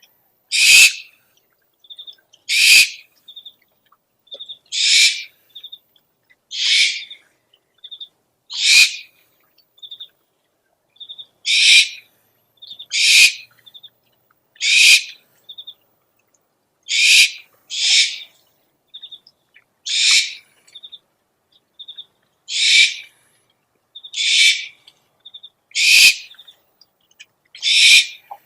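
Owl lure recording of an owl giving harsh, raspy screech calls, about fifteen of them, each about half a second long and repeated every one to two seconds, with short high pips between them.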